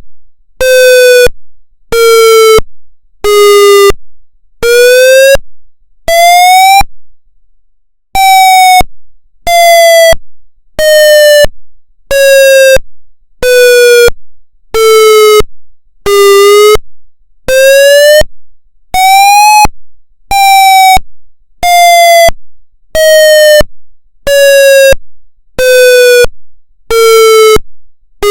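Federal MCP siren sounding a pulse wail: a rich, buzzy tone chopped into beeps a little faster than one a second. The pitch of the beeps slowly falls, then rises, then falls again, with one short pause about a quarter of the way through.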